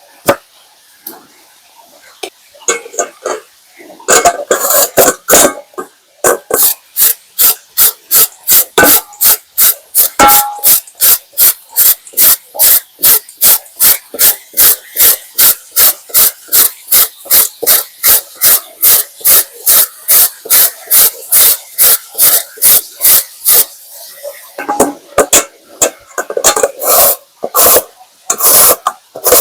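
Knife chopping on a cutting board in steady, even strokes, about three a second, with looser handling knocks before and after.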